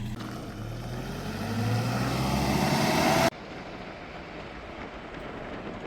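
A motor vehicle's engine speeding up, its pitch rising steadily and getting louder for about three seconds, then cut off abruptly. A quieter, even hiss follows.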